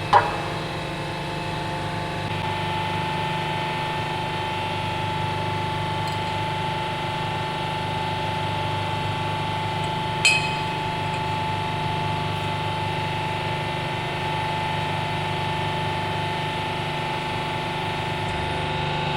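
Hydraulic press's electric motor and pump running steadily: a level hum with a higher whine that sets in about two seconds in. A single sharp click sounds about ten seconds in.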